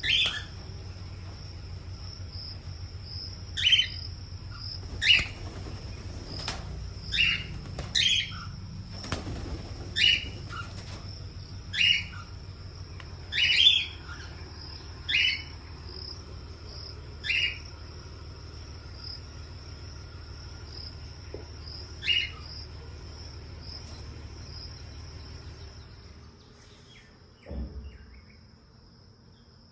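A pet bird giving about a dozen short, loud chirps, one every second or two, which stop about two-thirds of the way through. A steady high-pitched drone and a low hum run underneath, and there is a single low thump near the end.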